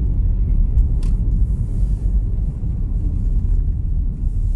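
Car driving on a narrow road, heard from inside the cabin: a steady low rumble of engine and tyres, with a faint click about a second in.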